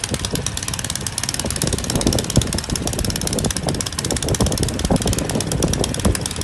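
Snow blower's small engine running steadily.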